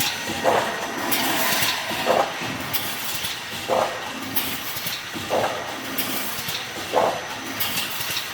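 Automatic BRC wire mesh welding machine running through its cycle, with a short clanking stroke about every one and a half seconds over steady machine noise.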